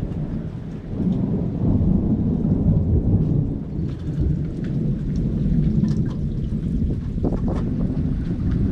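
Thunder rolling: a long, low rumble that grows louder about a second in and carries on, with rain falling.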